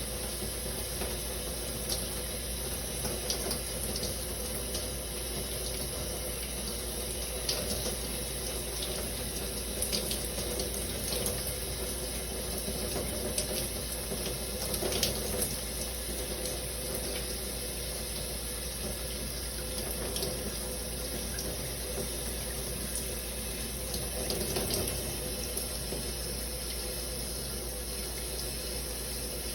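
Shower running steadily: water spraying and splashing, with scattered brief spatters and small swells in loudness.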